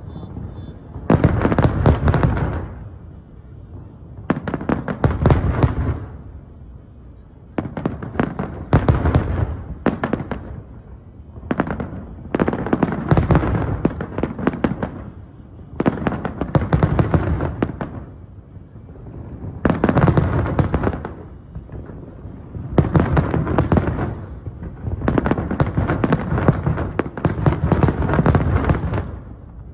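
Fireworks going off in volleys of rapid bangs and crackles, a new volley every three to four seconds, each with a deep boom underneath.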